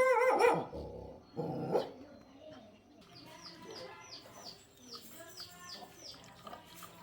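A dog barks twice in the first two seconds, then a small bird chirps repeatedly in short, falling high notes.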